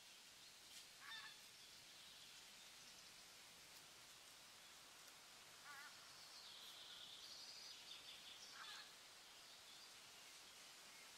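Faint outdoor ambience: a steady hiss with a few scattered bird calls, short chirps about a second in, near the middle and near the end, with a longer, higher call between them.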